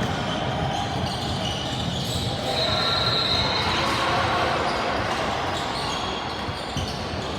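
Sounds of a basketball game in a gym: a basketball bouncing on the court over a steady background of voices from players and spectators.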